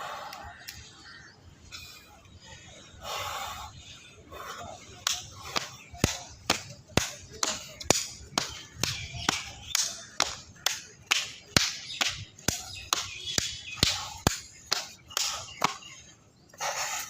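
A rapid, even run of sharp smacks, about two to three a second, starting about five seconds in and stopping shortly before the end, with a few softer rushing noises before it.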